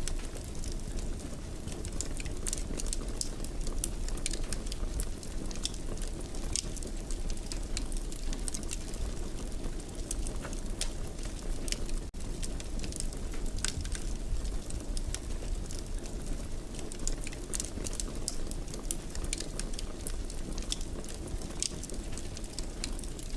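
Wood fire in a fireplace crackling: irregular sharp pops and snaps over a steady low rumble of burning, with a momentary dropout about twelve seconds in.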